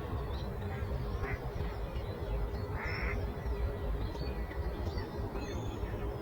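Countryside morning ambience: small birds chirping over a steady low rumble of breeze, with one louder, short call about three seconds in.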